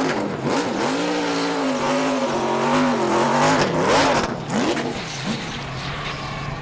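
NASCAR Truck Series V8 engine revving hard during a burnout, its pitch swinging up and down as the throttle is worked, with the hiss of spinning tires. It eases to a quieter steady run after about four seconds.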